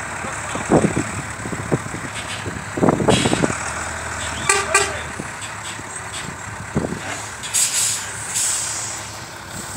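Heavy engines running during a mud recovery of a Scania truck by a tractor, a steady low rumble broken by several loud knocks and bangs. A short pitched toot comes a little before midway, and a burst of hiss follows near the end.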